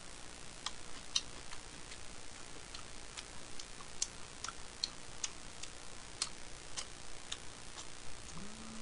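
Close-mic chewing of a mouthful of bossam (boiled pork): irregular wet mouth clicks and smacks, about one or two a second, with a brief hummed "mm" near the end.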